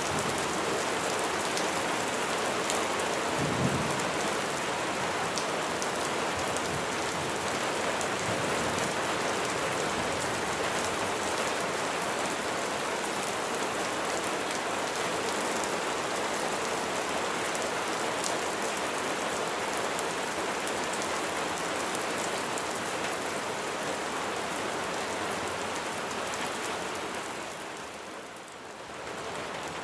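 Steady rain falling, an even hiss of dense drops. There is a brief low thump about three and a half seconds in, and the rain fades briefly near the end before coming back.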